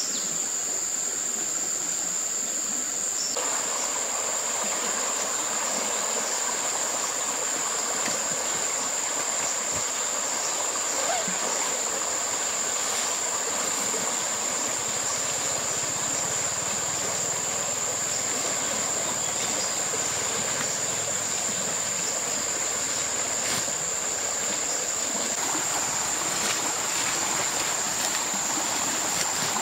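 Steady rush of running water, like a stream, with a continuous high-pitched insect drone over it; the water noise fills out a little over three seconds in.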